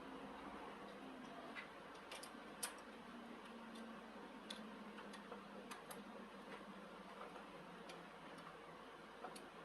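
Near silence with a low hiss and a few faint, irregularly spaced light clicks.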